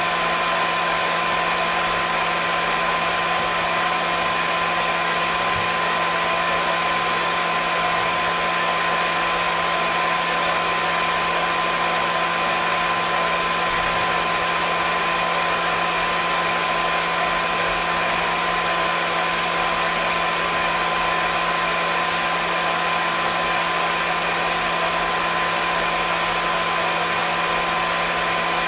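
Hair dryer running steadily: an even rush of air with a motor hum and a few steady whining tones, unchanging throughout.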